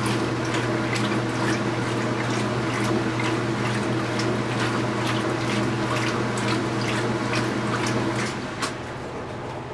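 2015 Speed Queen 8 Series top-load washing machine running, with a steady motor hum and water splashing and sloshing in the tub. About eight seconds in, the hum changes and the sound drops in level, with a single click.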